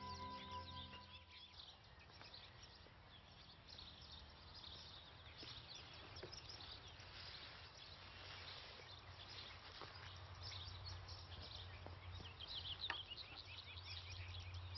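Songbirds chirping and singing over a faint outdoor background, with soft music fading out in the first second or so. A light tap is heard about thirteen seconds in.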